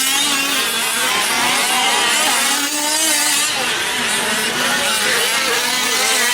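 Several 5th-scale RC trucks' small two-stroke petrol engines revving and easing off as they race around the track, their pitches overlapping and constantly rising and falling.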